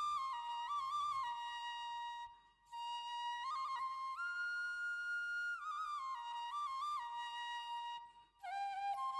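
Background music: a solo flute playing a slow melody of held notes and quick trills, with two brief pauses between phrases.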